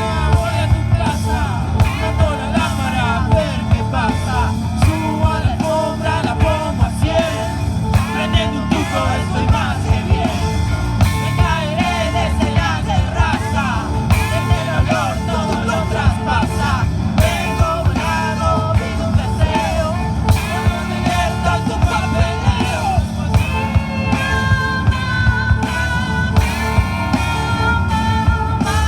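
Rock band playing live: drum kit beat and electric guitars with a bending lead melody line over them.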